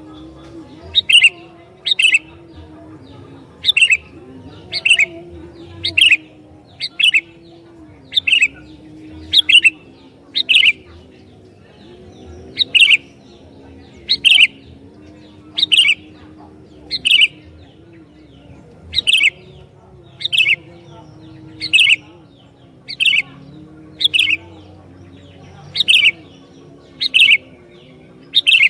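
Sooty-headed bulbul (kutilang) calling: a short, sharp chirp repeated about once a second.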